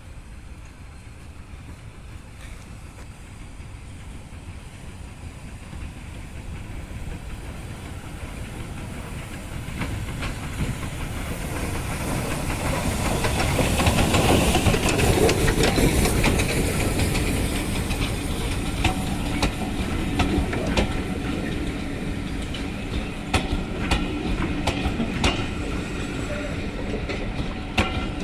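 A train running on the rails, growing steadily louder to its loudest about halfway through, then wheels clicking over the rail joints.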